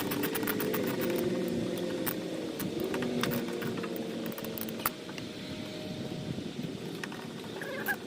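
Irregular light clicks and knocks of hand tools and plastic parts being handled while the wiper cowl is taken apart. Under them is a low hum with wavering tones that drops away after about five seconds, at a sharper click.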